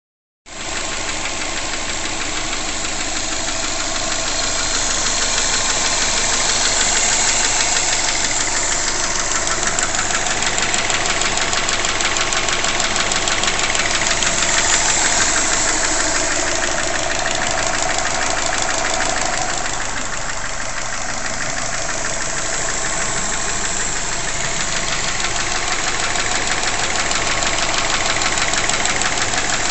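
2005 Subaru Legacy GT's turbocharged flat-four engine running steadily at operating temperature with a fast, even knocking clatter. The owner takes the clatter for piston slap from its forged Mahle 4032 pistons.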